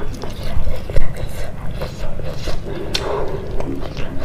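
Close-miked chewing and mouth sounds of a person eating rice and curry by hand: irregular wet clicks, the loudest about a second in, over a steady low hum.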